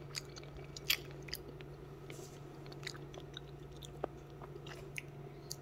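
A person chewing crunchy, sour mango slices close to the microphone: faint, scattered crunches and mouth clicks, over a steady low hum.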